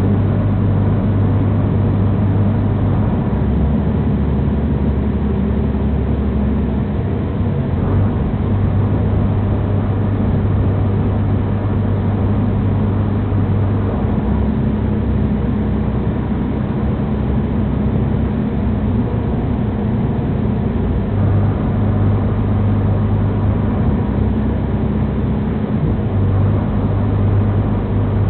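Inside the carriage of a moving Class 185 diesel multiple unit: steady running rumble, with a low engine hum that fades and comes back several times.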